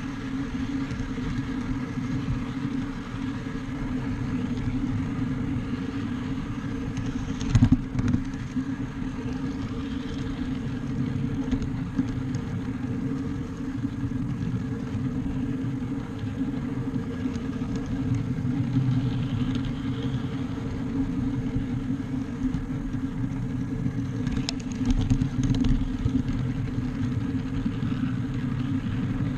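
A small backyard-railroad train running steadily along its track: a continuous mechanical hum of its motor and wheels, with one sharp loud knock about seven and a half seconds in and a few lighter clicks near the end.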